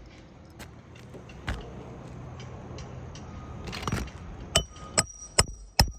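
Hammer driving a roofing nail into asphalt shingles: light handling clicks, then four sharp, ringing metal-on-metal strikes in quick succession in the last second and a half.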